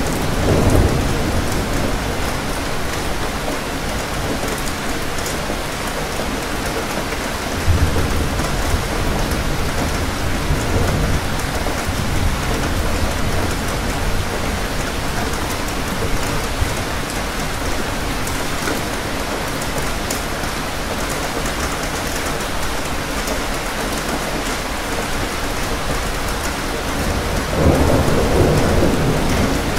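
Steady, heavy rain falling, with low rolls of thunder: one at the start, one about eight seconds in, and a longer one near the end.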